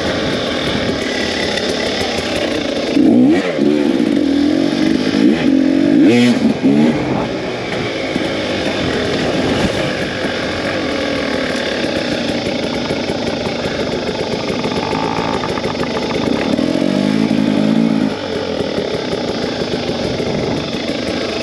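Two-stroke dirt bike engine running while riding, revving up in short bursts about three seconds in and again about six seconds in, with another rise in revs around sixteen to eighteen seconds in.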